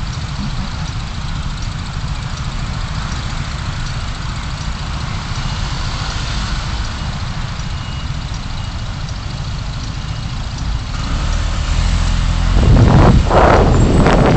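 A car's engine and road noise, a steady low rumble as heard from a dashcam. About twelve seconds in, a much louder, rough rushing noise sets in abruptly.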